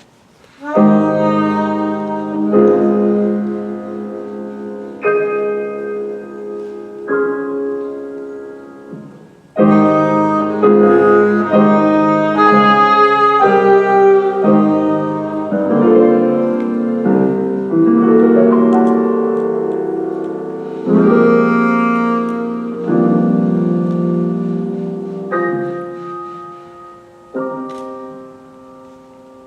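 Jazz piano playing alone: chords struck every two seconds or so and left to ring out, with a busier run of notes in the middle.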